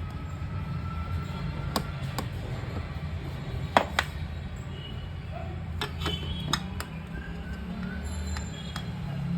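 Scattered sharp clicks and clinks of small hard parts being handled, about ten in all and loudest around the middle, over a steady low hum.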